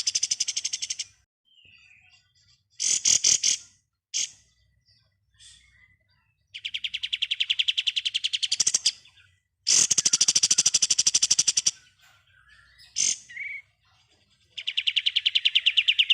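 Kapas tembak songbird singing in its rapid 'ngebren' style: fast machine-gun trills of evenly repeated high notes, each burst lasting one to two seconds, separated by short sharp calls and brief pauses.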